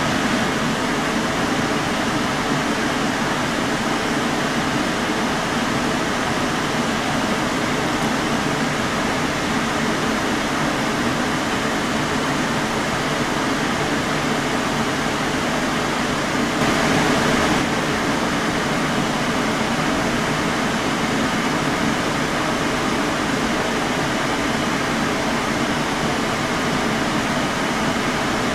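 Steady hum and hiss of a running machine, like an air conditioner or fan, unbroken throughout, swelling slightly for about a second near the middle.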